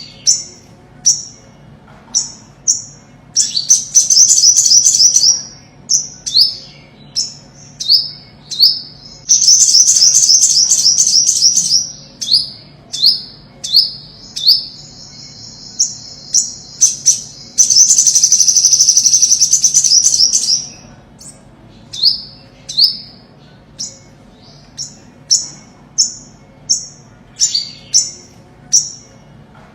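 Olive-backed sunbird calling: repeated sharp, high down-slurred chip notes, broken three times by a fast, high trilling song lasting two to three seconds each.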